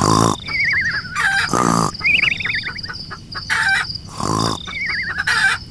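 Chickens clucking and calling, the same run of calls repeating about every four seconds.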